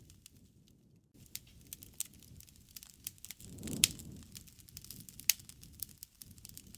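Wood fire crackling, with irregular sharp snaps and two loud pops about halfway through and near the end, over a low rush of flames that swells around the middle.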